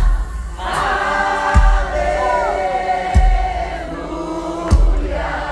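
Live gospel worship music: several voices sing long held, gliding notes over a heavy bass drum that hits about once every second and a half.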